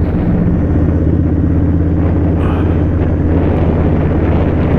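Indian Scout Sixty motorcycle's V-twin engine running at a steady pitch while riding.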